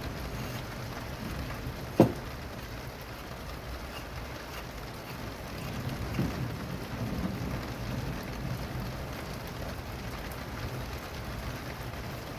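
Steady rain falling, with a low rumble of thunder underneath. There is one sharp tap about two seconds in and a fainter one near six seconds.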